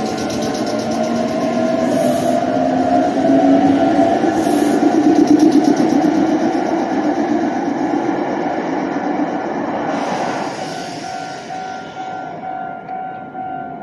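A Meitetsu red electric commuter train pulling away from the platform. Its traction motors whine in several tones that rise slowly in pitch as it accelerates, over the rumble of wheels on rail, which grows louder and then fades after about ten seconds. Near the end a steady pulsing ring remains, typical of a level-crossing bell.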